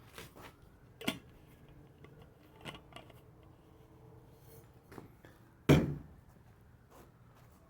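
Light clicks and taps of objects being handled on a hard surface, with one much louder knock a little under six seconds in.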